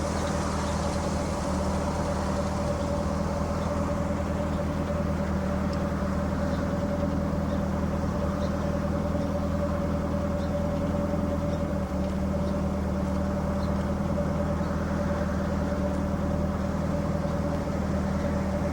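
An engine running steadily, a constant drone with an even hum that does not change in pitch or level.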